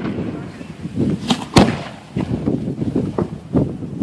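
Aerial fireworks shells fired from steel mortars at close range: a few sharp bangs, the loudest about a second and a half in, followed by smaller pops near the end.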